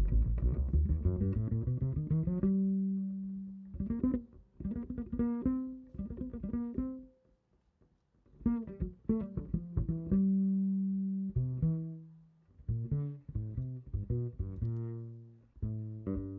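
Double bass played pizzicato on its own, as in a jazz bass solo. It opens with a quick rising run of plucked notes, then plays phrases of single notes, some left to ring, with a brief pause a little before the middle.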